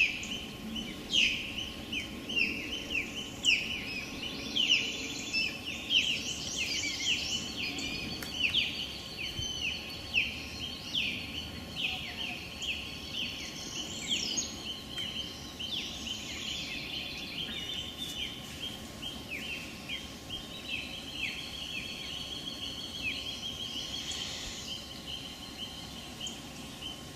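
Small birds chirping in a dense, continuous run of short falling chirps, several a second, with a thin steady high tone underneath for much of the time.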